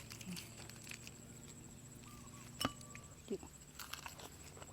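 Quiet eating sounds: a single light clink of a utensil against a dish about halfway in, with faint mouth sounds and a short murmur just after.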